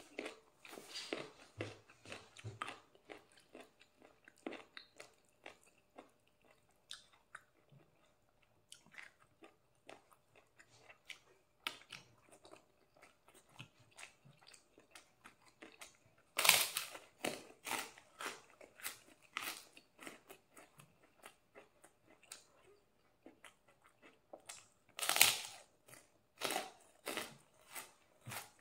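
Close-up eating sounds: steady chewing and crunching of raw lettuce leaves eaten with a spicy young jackfruit stir-fry. Two louder clusters of crackling, one past halfway and one near the end.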